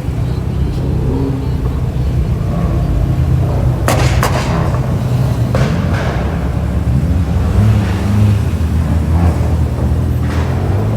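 BMW M3/M4 exhaust rumbling steadily at low revs, with a few sharp pops about four seconds in and again near the end.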